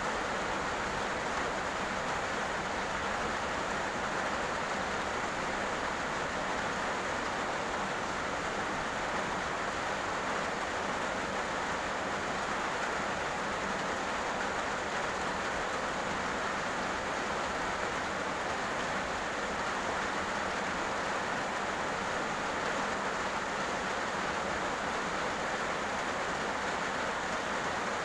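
Heavy rain falling steadily on a road: an even, unbroken hiss of water.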